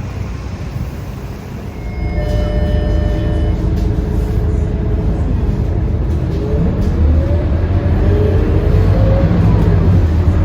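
Scania K230UB city bus's five-cylinder diesel engine pulling away: a steady low rumble that grows louder about two seconds in, then rising whines that climb and drop back several times as the bus accelerates through its gears. A short electronic tone sounds about two seconds in.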